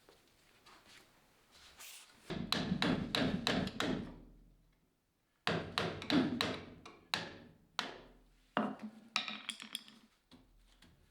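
Metal being struck with a hammer in quick runs of blows, about four a second, each blow ringing briefly, with short pauses between the runs.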